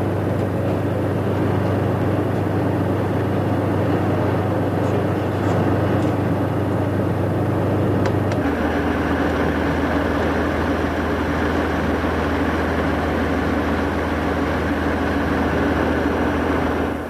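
Heavy Ural off-road truck engine running under way with a steady low drone; the engine note shifts lower about eight seconds in.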